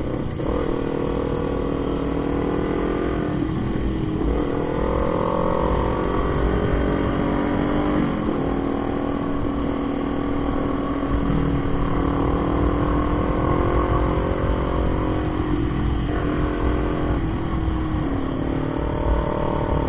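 Motorcycle engine pulling hard under acceleration, its pitch climbing steadily and then dropping back at each upshift, about four times, over a steady rush of wind noise.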